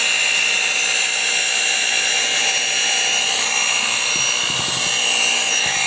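Electric kitchen mixer running steadily at speed, a loud motor drone with a high, even whine.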